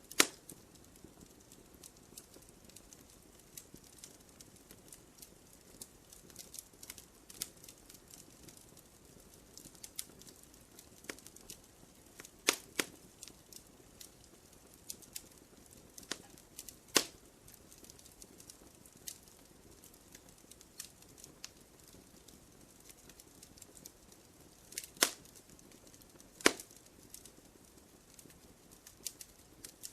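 Wood fire crackling in a fireplace: a steady run of small snaps and pops over a soft hiss, with a few much sharper pops scattered through.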